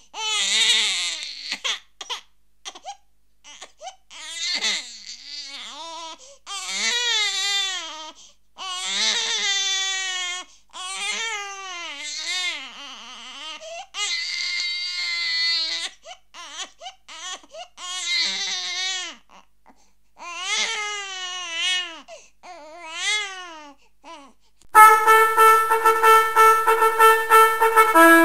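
Crying like an infant's, about nine separate wailing cries of a second or two each, wavering in pitch. About 25 s in, a loud, steady, trumpet-like tone takes over.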